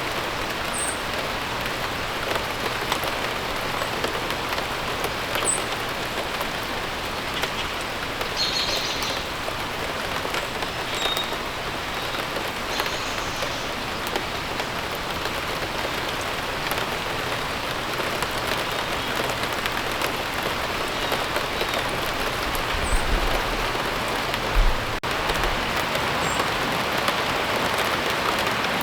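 Steady rain falling and pattering on surfaces, with a few brief bird chirps over it. A couple of low thumps come about three-quarters of the way through.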